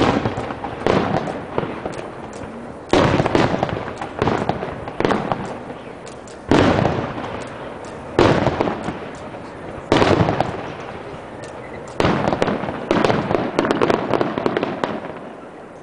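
Fireworks display: aerial shells bursting one after another, roughly every one to two seconds, each sharp bang trailing off in a fading rumble.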